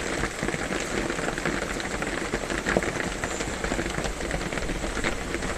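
Rain falling on a metal roof: a dense, even patter of many small drop impacts.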